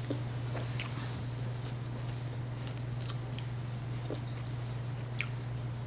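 Eating sounds: soft chewing with a few sharp clicks of crunching and lip noise, two louder ones about one second in and near the end, over a steady low electrical hum.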